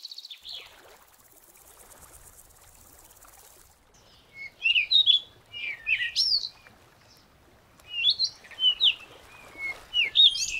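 Small songbirds chirping, with quick clusters of short, sliding whistled notes starting about four seconds in, after a quiet stretch.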